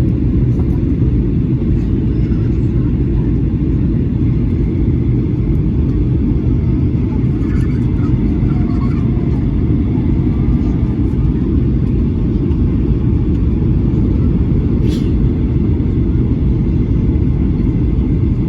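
Steady low rumble of a jet airliner's engines and airflow heard from inside the passenger cabin in flight, with a brief click near the end.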